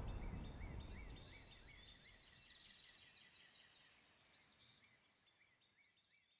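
Faint outdoor ambience with small birds chirping in a repeating pattern. The low background fades away over the first two seconds, and the chirps carry on very faintly.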